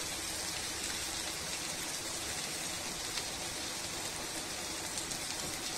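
Carrot and beetroot strips sizzling steadily as they shallow-fry in oil in a frying pan, with faint scattered crackles. The vegetables are near the end of frying and almost done.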